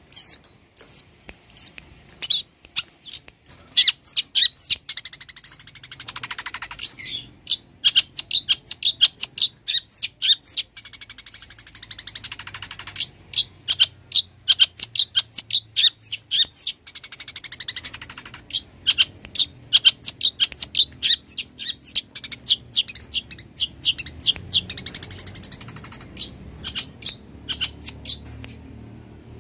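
Long-tailed shrike (cendet) singing a fast, loud string of sharp, high chirps and chattering notes, several to the second, in long runs broken by a few short pauses.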